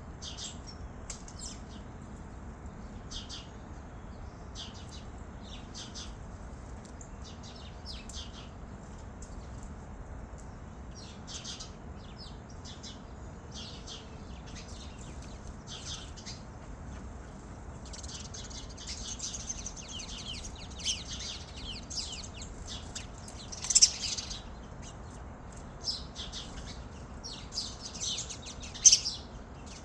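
Birds chirping: short, high chirps repeating throughout, becoming busier and louder in the last third, with a couple of sharp loud chirps near the end.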